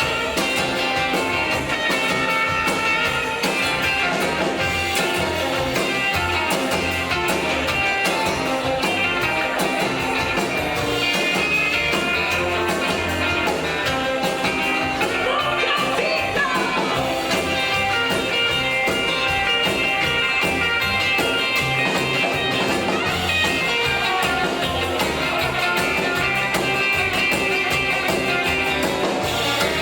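A live rockabilly band playing a stretch without lyrics: electric guitar over a steady beat from slap double bass and drums.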